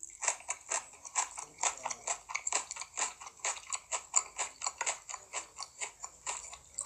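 Close-miked chewing of sushi: rapid wet, sticky mouth clicks and smacks, about six a second.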